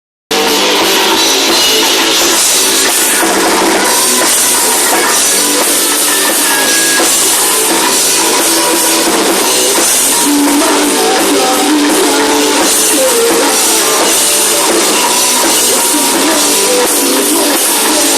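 Rock band playing live: drum kit and electric guitars, loud and steady, starting abruptly a third of a second in.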